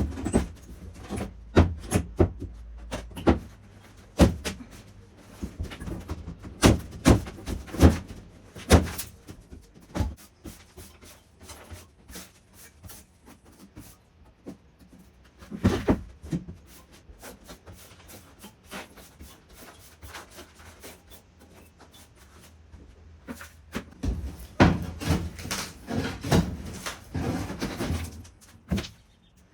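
Irregular knocks, bumps and scrapes from clean-up work inside a gutted caravan. They come in busy bursts with a quieter stretch in the middle.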